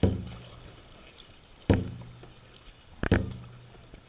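Dragon boat drum beating the stroke just after the start: three hits about a second and a half apart, each a low boom that rings and dies away.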